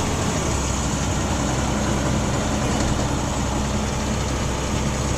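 International 4300 box truck's diesel engine running steadily under way.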